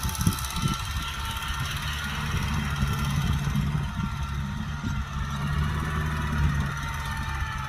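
Kubota tractor's diesel engine running steadily, with a thin wavering whine above the engine note and a few knocks near the start.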